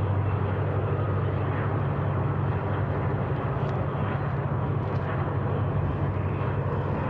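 Long freight train rolling by at steady speed: a constant low drone with a rough rumbling of the cars over the rails.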